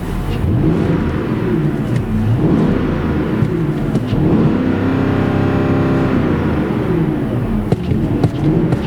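Porsche Cayenne GTS's 4.8-litre V8 under full-throttle acceleration, its pitch climbing and dropping back at each upshift of the six-speed automatic, three shifts in all.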